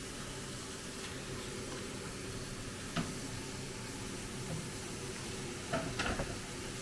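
Chicken wings frying in hot oil with a steady sizzle, as they are fried a second time. A sharp click about three seconds in and a few knocks near the end.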